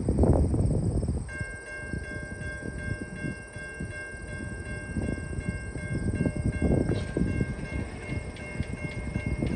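Railway level-crossing warning bell starts ringing about a second in and keeps ringing steadily, signalling an approaching train. Wind buffets the microphone with a gusty low rumble.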